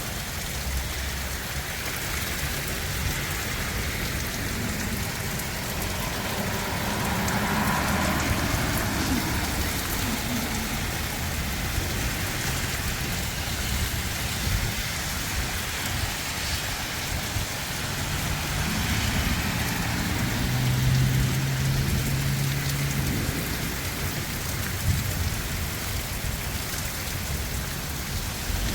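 Heavy rain falling steadily, an even hiss of drops on surfaces. A low steady hum joins in for a few seconds about two-thirds of the way through.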